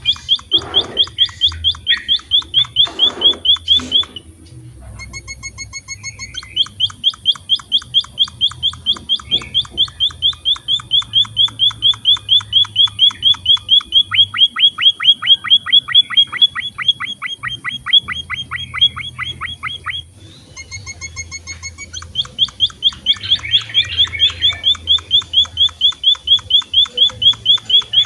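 A small emprit finch singing: long runs of rapid, evenly repeated sharp chirps, about five a second. The runs break off briefly twice and then resume.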